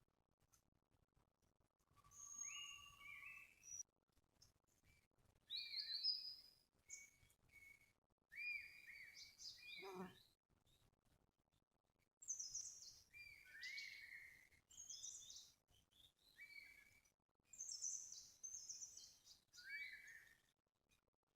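Forest birds singing: short high chirped and whistled phrases come one after another every second or so, with brief pauses between them.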